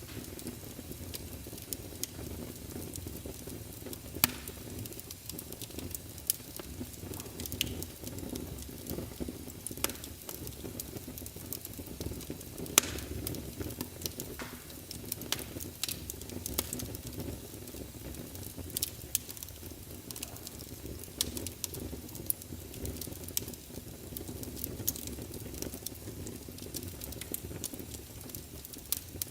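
Log fire burning, with a steady low rumble of flames and sharp wood crackles and pops at irregular intervals, one louder pop about halfway through.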